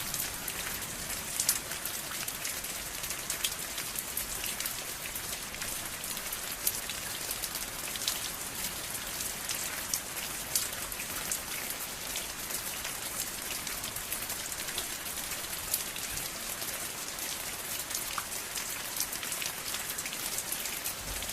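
Steady rain falling, an even hiss with many scattered sharp drop impacts.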